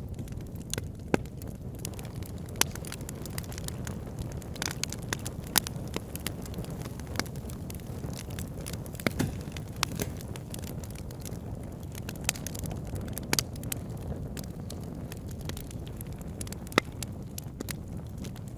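Wood fire burning in a fireplace: a steady low rush of flames with irregular crackles and a few sharper pops.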